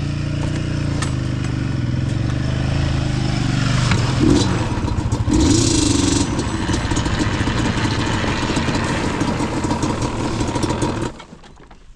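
Yamaha Banshee's twin-cylinder two-stroke engine running at low revs while the quad manoeuvres to turn around, with a few short throttle blips about four to six seconds in. The engine sound drops off suddenly about eleven seconds in.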